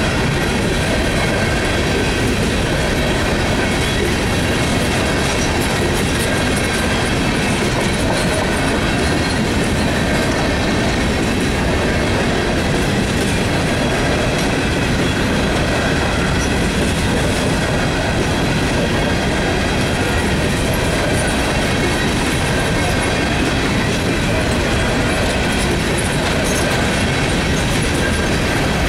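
Loaded coal hopper cars of a long freight train rolling past close by: a steady rumble and clatter of steel wheels on rail, with a faint, steady, high wheel squeal running through it.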